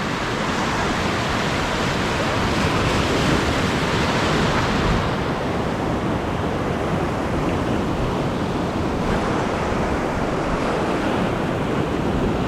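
Sea surf washing over a shallow coral reef, a steady rush of noise that is fuller for the first few seconds and then eases, mixed with wind on the microphone.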